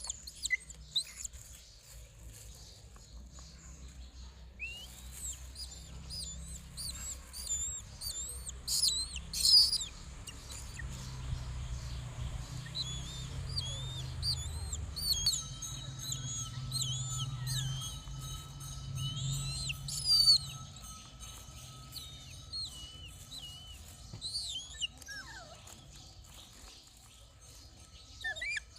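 Pet bird chirping repeatedly while being fed: many short, high chirps that bend up and down in pitch, thickest in the middle, with a louder burst about nine seconds in and again about twenty seconds in.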